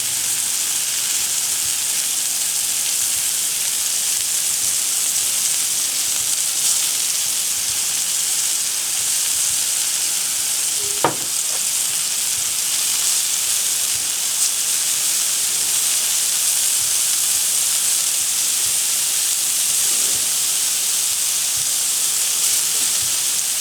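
Thinly sliced Roma tomatoes sizzling steadily on a hot Blackstone flat-top griddle, with one sharp click about halfway through.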